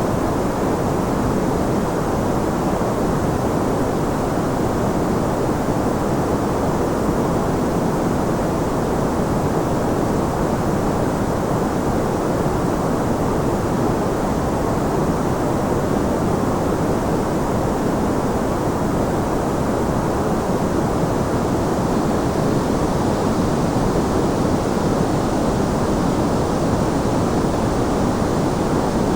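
Continuous white noise played as a sleep sound: a steady, even hiss with no changes, dull and muffled, its energy mostly in the low and middle range.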